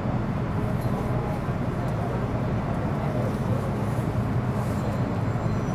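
Steady in-car running noise of an MTR Metro Cammell M-Train (C192, GEC GTO chopper traction) on the Island Line: an even low rumble with a few faint steady tones above it.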